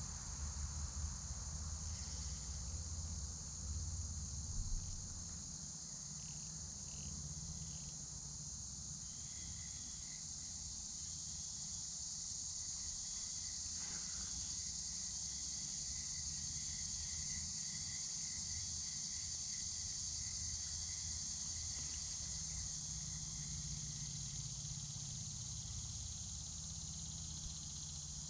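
Steady chorus of insects, a continuous high-pitched buzz that does not let up, with some low rumble during the first five seconds.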